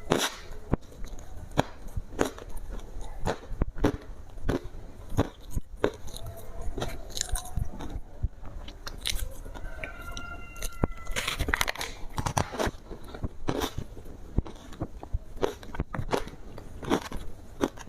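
Ice with matcha being bitten and chewed close to the microphone: a rapid, irregular run of sharp crunches and cracks.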